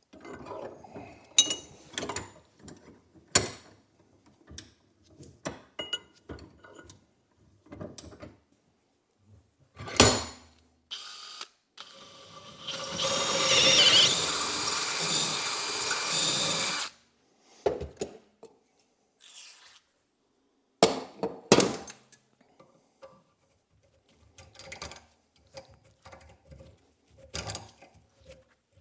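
Metal parts and hand tools clinking and knocking as they are handled, with a power drill running steadily for about four seconds midway.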